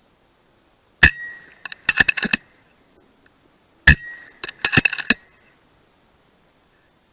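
Two shots from an FX Dreamline .177 PCP air rifle about three seconds apart, each a sharp crack with a brief metallic ring. Each shot is followed within a second by a quick run of five or six metallic clicks.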